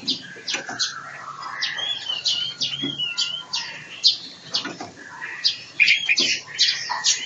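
Small birds chirping: a rapid run of short high chirps, with a few short wavering whistled notes about two seconds in.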